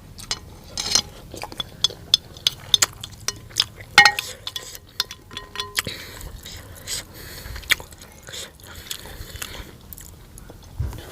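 Close-miked eating of noodle soup: many short wet chewing and mouth clicks, with a utensil clinking on the dish about four seconds in.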